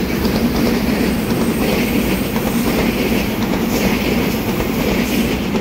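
A twelve-car EMU3000 electric multiple unit passing close by, with a loud, steady noise of wheels running on the rails.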